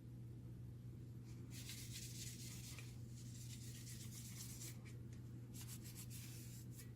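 Scratchy rubbing and scraping of hands working fuser assembly parts, in two stretches: one about a second and a half in, and one again near the end. A steady low electrical hum runs underneath.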